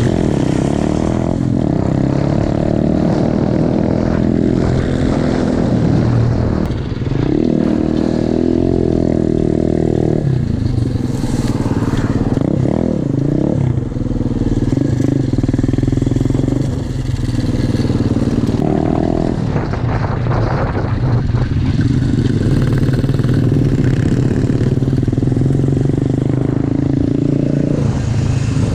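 Single-cylinder pit bike engine running hard while being ridden, its revs rising and falling with the throttle and dipping briefly a few times.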